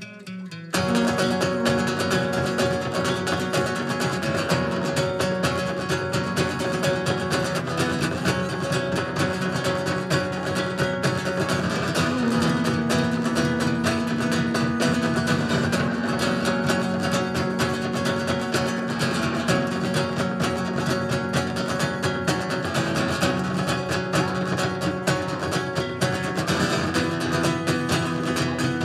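Acoustic guitar music, strummed and plucked in a flamenco-like style, coming in loudly under a second in after a quieter passage and then playing on steadily.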